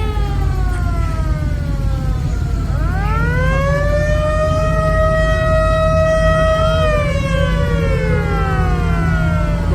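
A siren wailing: its pitch falls away at the start, winds up again about three seconds in, holds steady for about four seconds, then slides back down. A steady low rumble of engines runs underneath.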